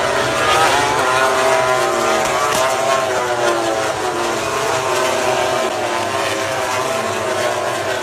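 Several MotoGP racing motorcycles running at high revs together, their engine notes rising and falling over one another.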